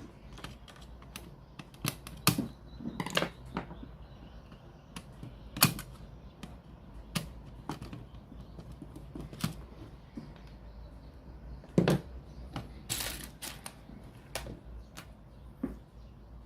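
Irregular clicks and light knocks of small hard objects being handled, a few in quick clusters, over a steady low hum.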